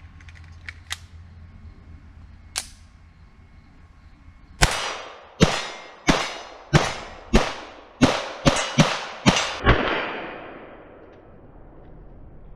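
Ruger Mark III 22/45 Target pistol firing ten .22 LR rounds in a rapid string, the shots coming faster toward the end, each with a short ringing echo. A few light clicks come before the string.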